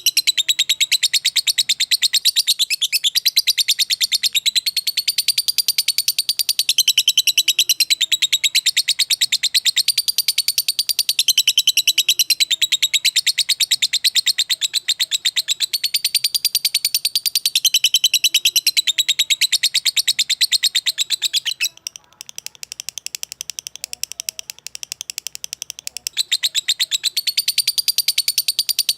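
A songbird singing a loud, high-pitched song of very rapid repeated notes run together into continuous chattering phrases, dropping quieter for a few seconds about three-quarters of the way through.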